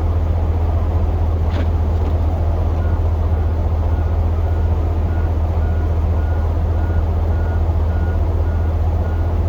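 Pickup truck running with a steady low drone of engine and road noise. From about three seconds in, a high electronic beep repeats about twice a second.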